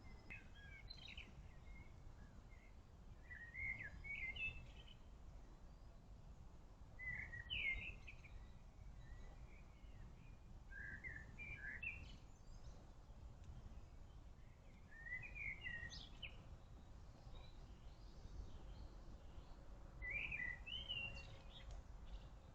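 A songbird singing short, quick phrases of chirps, one every three to four seconds, six in all, over a steady low rumble of background noise.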